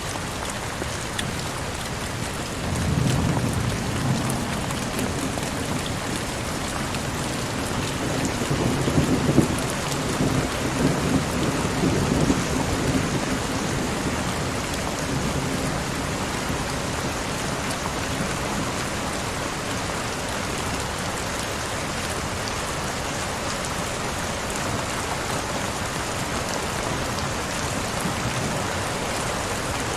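Heavy rain falling steadily, with a long low rumble of thunder that starts about three seconds in and dies away after about ten seconds.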